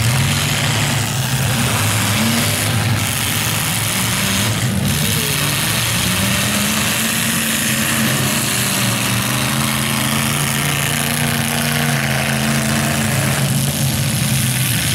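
Several demolition derby cars' engines running together as a loud, steady din, rising and falling in pitch as they rev while the cars push and ram one another.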